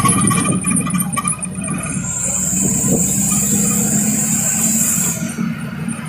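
Truck engine running steadily, with a loud hiss starting about two seconds in and cutting off after about three seconds.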